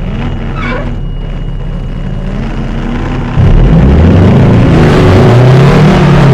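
Detroit diesel engine of a Peterbilt 359 dump truck pulling hard for a run at an icy hill; about three seconds in it jumps sharply louder and its pitch climbs and drops repeatedly as it accelerates.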